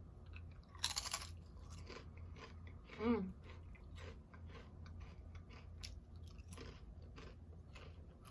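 A person biting into a crunchy chip and chewing it: a loud crunch about a second in, then crunching and chewing with many small clicks. A short hummed "mm" that falls in pitch about three seconds in.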